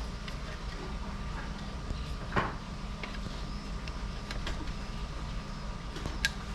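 Handling of wooden beehive super frames: a few light clicks and knocks, with one brief scrape about two and a half seconds in and a sharp click near the end, over a steady low hum.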